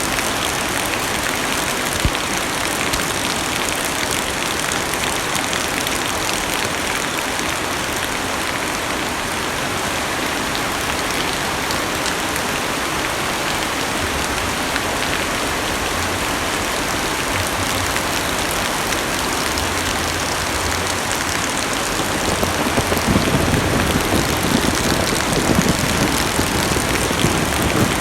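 Heavy rain drumming steadily on a car's roof and windows, heard from inside the cabin. About 22 seconds in it grows louder and rougher, with a deeper rumble underneath.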